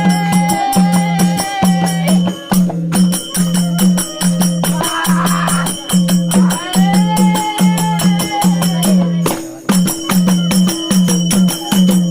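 Instrumental interlude of a Nepali devotional bhajan: a bansuri flute melody in long held notes over a steady drum beat of about two strokes a second, with constant jingling percussion.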